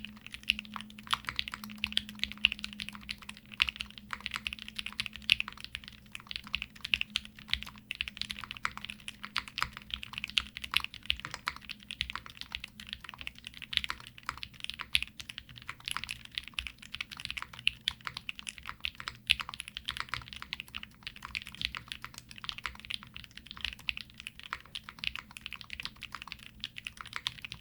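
Continuous typing on a Haven TKL custom mechanical keyboard fitted with KTT Rose linear switches and GMK Momoyume keycaps: a steady, unbroken stream of quick keystrokes.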